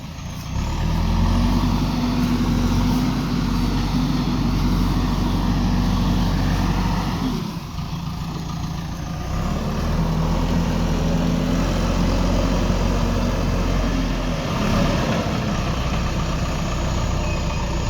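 Backhoe loader's diesel engine working, revving up and easing back twice: higher revs for about seven seconds, a dip, then revs rising again for about five seconds before settling back.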